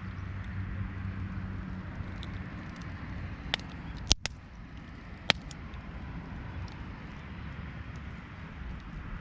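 Wood fire crackling, with a few sharp pops about three and a half to five seconds in.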